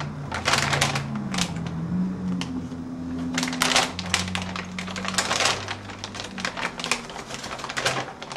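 Quick, irregular clicks and crackles of packaging being handled as a motherboard is worked out of its foam-lined box.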